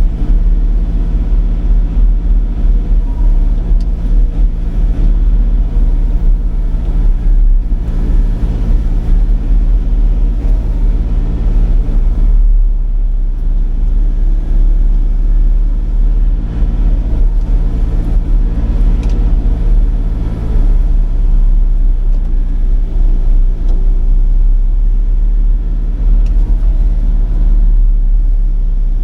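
Sany 35 mini excavator's diesel engine running steadily under load, driving its hydraulic mulcher head as it mows grass and brush.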